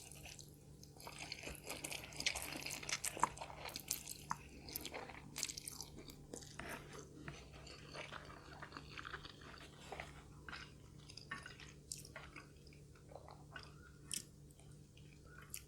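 A person chewing and biting food close to the microphone, with many small crunches and crackles throughout.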